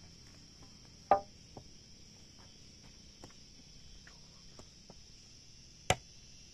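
A tool striking timber: one loud strike about a second in with a brief ringing tone, a few faint taps, and a sharp crack near the end. A steady high insect drone runs underneath.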